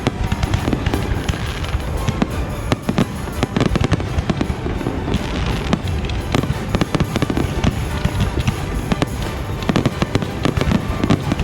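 Fireworks display going off: a dense, continuous barrage of bangs and crackling pops in quick succession.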